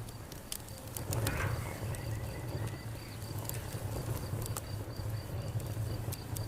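Fire crackling, with sharp irregular pops over a low steady rumble, while a high, evenly pulsing chirping runs throughout.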